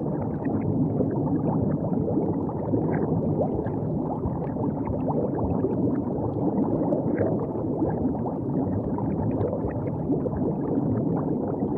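River water gurgling and lapping along the bank: a steady low rush dotted with small splashes.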